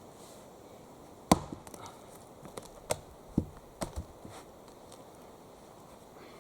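Axe chopping wood: one sharp chop about a second in, then a quicker run of four or five lighter knocks between about three and four seconds in.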